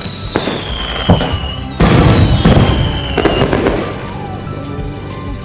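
Fireworks shells bursting overhead: a run of sharp booms and crackling, heaviest around two to three seconds in, with two high whistles sliding down in pitch.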